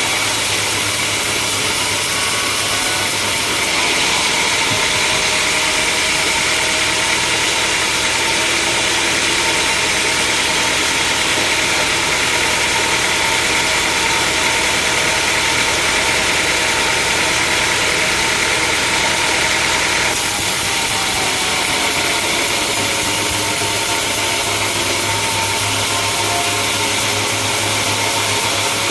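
Sawmill machinery running steadily, a dense motor-and-saw noise. It brightens about four seconds in and eases back again around twenty seconds in.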